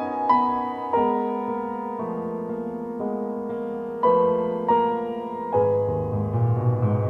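Background piano music, slow and gentle, with single notes struck every half second or so and a lower bass line coming in near the end.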